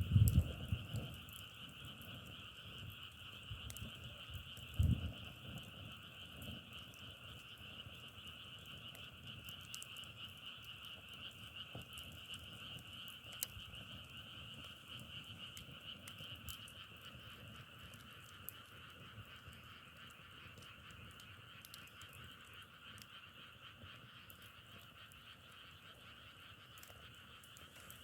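Dense chorus of many frogs calling at once, a steady crackling din like burning firewood, slowly fading. There are a few low thumps in the first five seconds.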